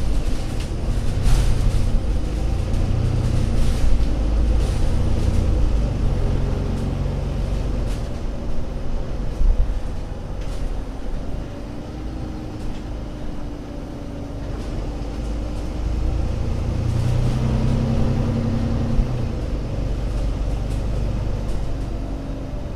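Alexander Dennis Enviro500 MMC Euro 6 double-decker bus engine running under way, a deep rumble whose pitch and loudness rise and fall as it pulls and eases off, with a few sharp clicks or rattles.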